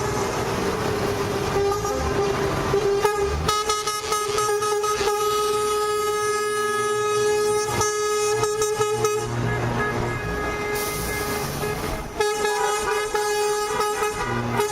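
Lorry air horns blowing long held blasts over the rumble of truck engines. One horn note is held throughout, and more horns join in about three seconds in. They drop away near nine seconds and sound together again near the end.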